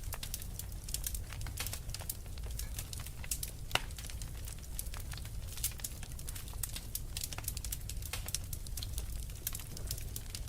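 Wood fire crackling: a dense, irregular run of sharp pops and snaps over a steady low rumble of the flames, with one louder pop near the middle.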